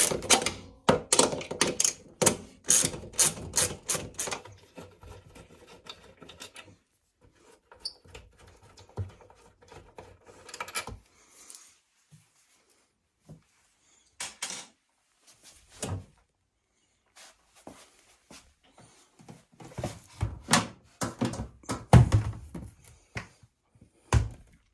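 A ratchet tool clicking quickly for the first four seconds or so as screws are backed out. After that come scattered knocks and thunks of panels and parts being handled, with a cluster of louder thumps near the end.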